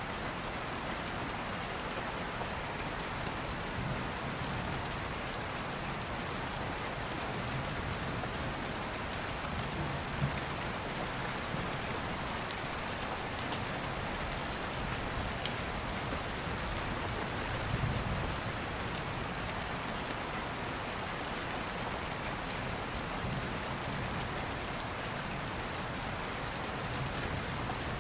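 Steady, dense rainfall, with a few faint low rumbles of distant thunder and occasional sharp ticks.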